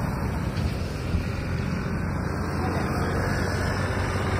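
Maruti Suzuki S-Presso's small three-cylinder petrol engine running at low speed as the car creeps forward, a steady low hum.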